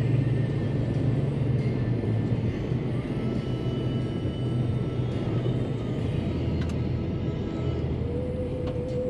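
A vehicle's engine running with a steady low rumble, under background music.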